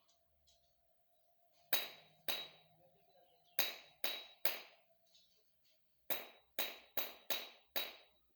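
A series of sharp knocks, some with a short metallic ring: two, then three, then a quicker run of six.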